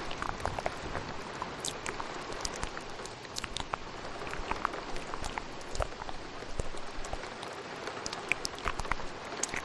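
Steady rain with wet ASMR mouth sounds layered over it: many quick, irregular clicks and smacks.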